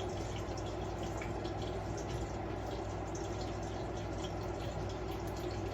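Liquid running steadily with a few faint drips, over a steady low hum.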